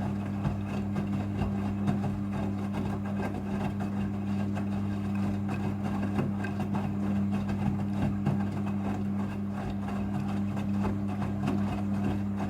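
Midea front-loading washing machine running during its rinse: a steady electric hum with crackly water noise.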